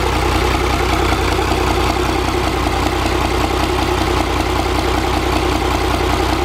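Komatsu 6M95A-1 marine diesel engine running steadily at an even, unchanging speed, with a fast regular firing rhythm.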